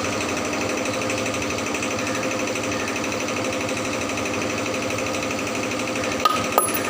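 A machine running steadily with a fast, even rattling pulse and a steady whine in it. Two sharp clicks come near the end.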